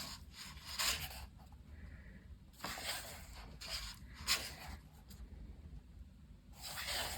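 Pages of a paperback coloring book being turned and smoothed flat: a string of short paper rustles and rubs with quiet gaps between them.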